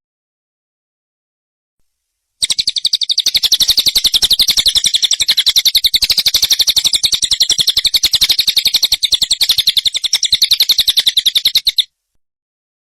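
Songbird chatter from a masteran training recording: a fast, evenly spaced trill of rapid notes. It starts a couple of seconds in and cuts off abruptly near the end.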